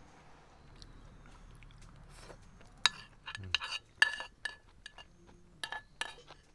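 Eating utensils and cookware clinking: a quick run of sharp clinks with a brief ring, starting about three seconds in.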